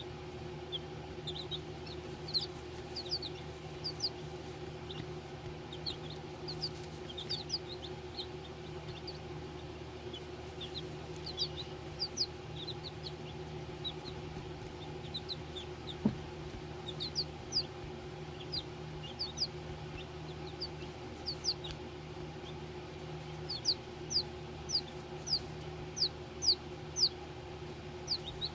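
Baby chicks peeping: short, high peeps that fall in pitch, scattered throughout and coming louder and more regularly near the end, over a steady low hum.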